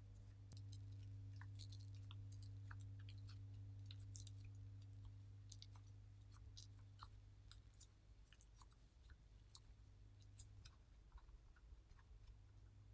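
Near silence: faint, scattered small clicks and light taps, over a steady low hum.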